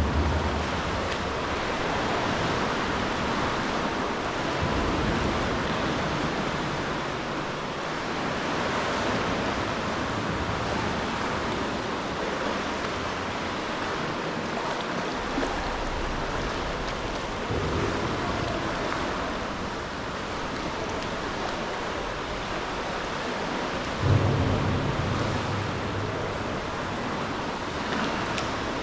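Sea water washing and lapping against rocks around a sea kayak, a steady wash with no clear pattern. Wind buffets the microphone in a few low gusts, the strongest near the end.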